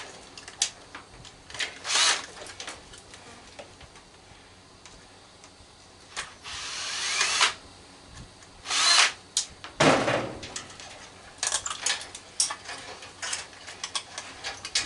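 Power drill/driver run in several short bursts, backing out screws, its pitch rising during one longer run. A loud knock comes about ten seconds in, followed by small metallic clicks and rattles of loosened parts.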